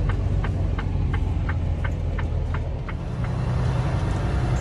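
Semi-truck diesel engine running with a steady low rumble inside the cab, while the turn signal clicks about three times a second and then stops about three seconds in.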